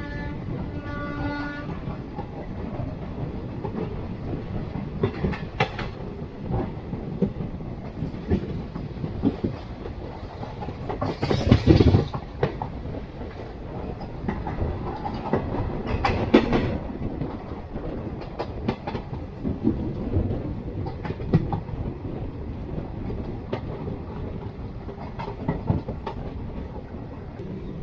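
Jan Shatabdi Express passenger train running, with steady rumble and wheels clattering over rail joints; the clatter is loudest about halfway through and again a few seconds later. A train horn is still sounding at the start and stops about a second and a half in.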